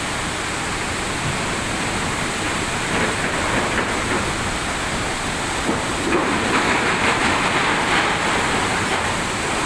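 Waterfall rushing steadily, a loud even wash of falling water that swells slightly in the middle.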